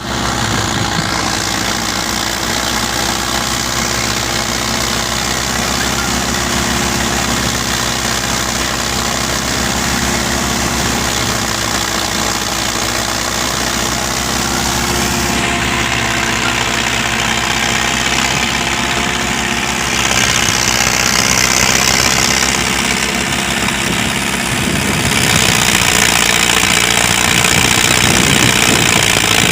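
Preet 6049 tractor's diesel engine running steadily while driving a 60-inch thresher. It gets louder about two-thirds of the way in, and again a little later.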